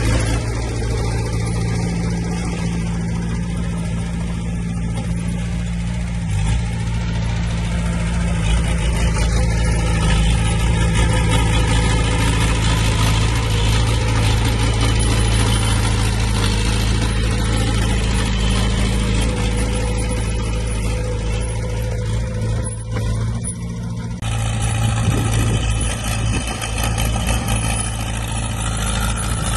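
Heavy diesel engines of earthmoving machines running steadily, with a low continuous drone. About 24 seconds in the sound changes abruptly.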